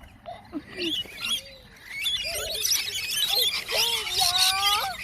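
Small birds chirping and twittering, with many quick, high, wavy chirps overlapping, busier from about halfway through.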